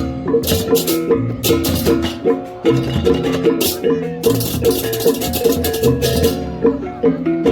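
Balinese gamelan music: repeating interlocking notes on tuned metal gongs over a drum beat, with bursts of crashing small cymbals.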